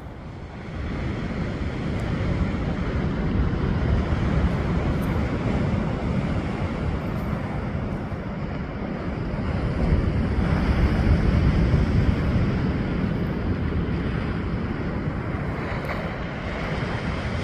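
Sea waves washing onto the beach, with wind rumbling on the microphone. The surf swells louder about four seconds in and again around ten to twelve seconds.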